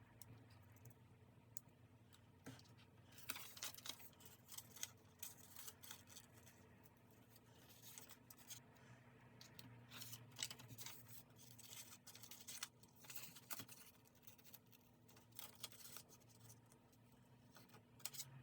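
Scissors cutting paper: a run of faint, irregular snips.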